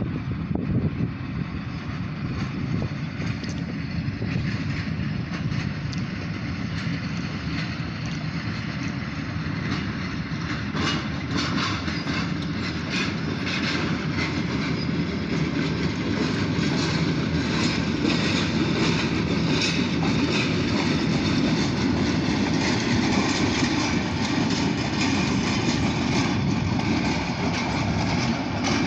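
Diesel locomotives running light with no cars, their engines rumbling steadily and wheels clicking over the rail joints, getting louder through the first half.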